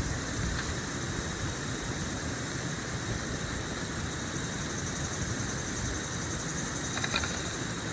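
Steady jungle ambience: an even rushing noise with a constant high-pitched insect chorus over it. A faint short click comes about seven seconds in.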